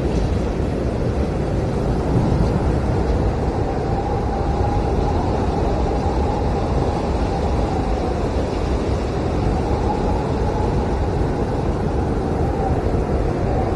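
Blizzard wind blowing hard: a steady low rush with a faint howling whistle that swells and fades twice.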